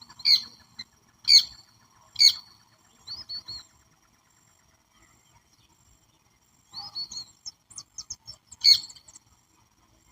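Wild birds calling: three sharp, loud calls about a second apart, then a few quick chirps, a pause, more chirping, and one last loud call near the end. A faint steady high tone runs underneath.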